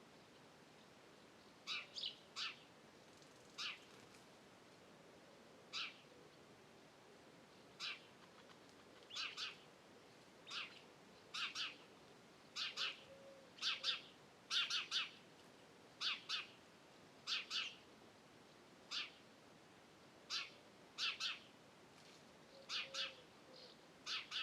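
A bird repeatedly giving short, sharp call notes, singly or in quick pairs, every second or two.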